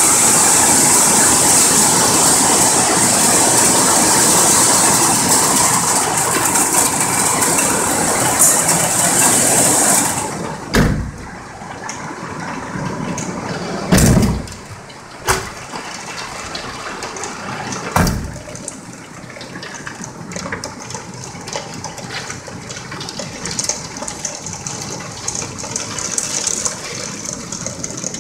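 Hail and rain pounding down in a dense, loud hiss; about ten seconds in it drops abruptly to lighter rain, broken by a few loud knocks.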